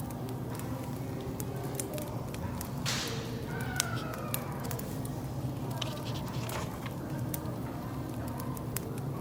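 Wood fire crackling with scattered sharp pops over a cafe background of indistinct murmuring voices and a low steady hum; a brief hiss about three seconds in.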